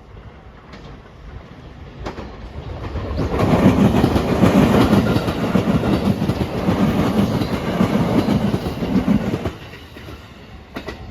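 A passenger train passing close by at speed, its wheels clattering over the rail joints. The sound builds over the first few seconds, holds loud for about six seconds, then drops away near the end.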